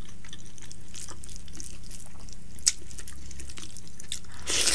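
Close-miked wet eating sounds of rice soaked in sukuti (dried buffalo meat) curry, eaten by hand: chewing with small sticky mouth clicks throughout and a louder wet smack near the end, over a steady low hum.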